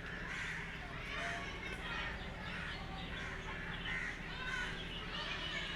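Birds calling over and over in short, arched calls, over a steady low background hum.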